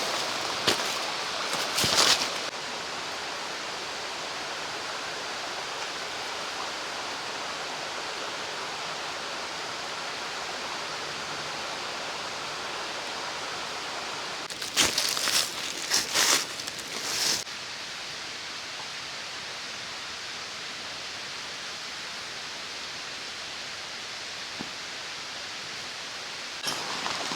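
Mountain stream flowing steadily, with a few short rustles and knocks near the start and again about halfway through.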